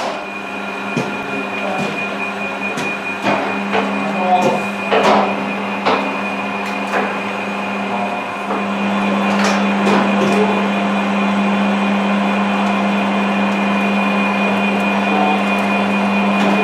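Metal lathe running, a steady motor hum with a thin high whine, with scattered clicks and knocks over the first half. About eight seconds in the hum grows stronger and steadier.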